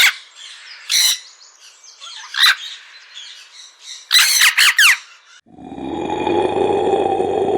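Birds squawking and chirping in a few short, sharp, high calls. About five and a half seconds in, a steady, rough, lower sound starts and continues.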